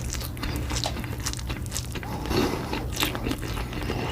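Close-miked ASMR eating: a person biting and chewing food, a run of small irregular moist clicks and smacks.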